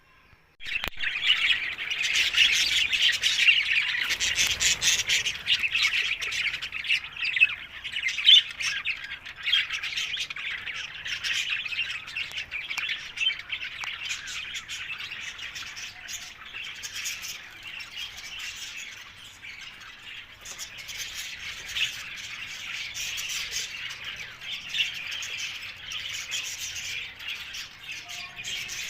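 Green parrots (Alexandrine parakeets) squawking and chattering without pause, with many overlapping high-pitched calls. It starts abruptly just after the beginning and is loudest in the first ten seconds or so.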